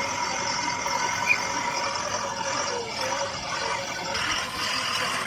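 A steady mechanical hum with a constant whine.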